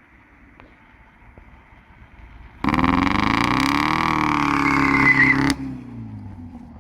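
Mercedes-Benz W202 engine, damaged from running without oil and firing on only three cylinders (one piston missing its rings), ticking over faintly, then revved hard about two and a half seconds in. The revs climb and fall back over about three seconds, the sound cuts off abruptly, and the engine runs down at a low pitch.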